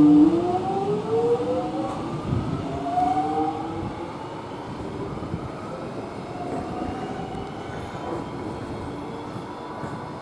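Electric X'Trapolis suburban train accelerating, its traction motors whining in several tones that rise in pitch over the first few seconds, then fading as it moves off. A loud steady hum breaks off just after the start as the rise begins.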